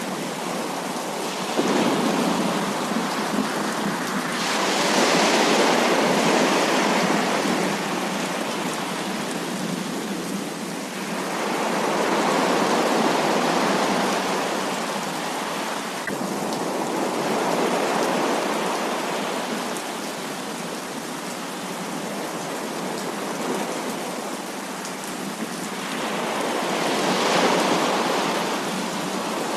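Heavy rain pouring steadily as a dense hiss, swelling louder for a few seconds at a time several times over.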